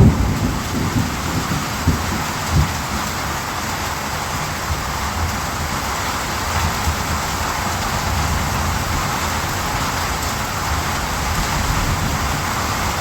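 Steady heavy rain falling, an even hiss, with a low rumble of thunder trailing off in the first few seconds.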